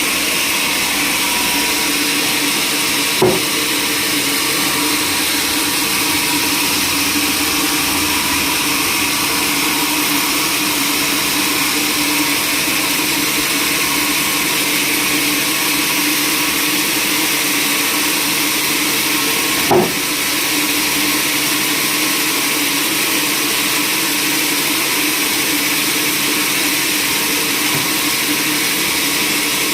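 Sawmill machinery running steadily, a loud even mechanical noise with a faint held tone in it, broken by two sharp knocks, one a few seconds in and one about two-thirds of the way through.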